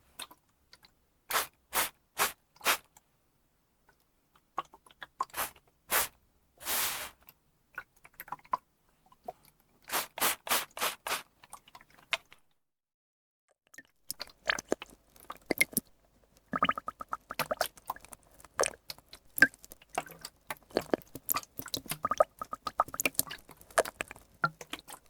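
Close-miked water ASMR sounds. Sets of short hissing bursts come first, then dense crackling and popping fills the second half.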